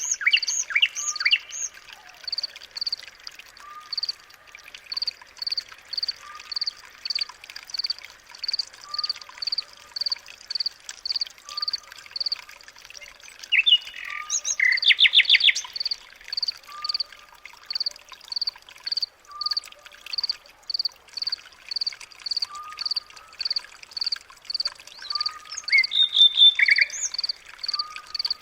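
Birds calling: a regular high chirp repeated about three times every two seconds, a lower short note every couple of seconds, and bursts of rapid trilled calls about halfway through and near the end.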